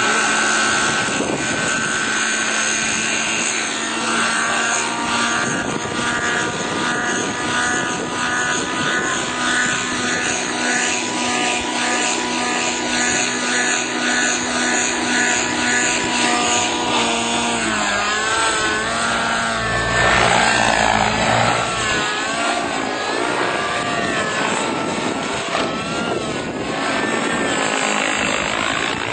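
Helicopter running, with a steady engine whine and rotor pulse; its tones waver up and down in pitch in the second half.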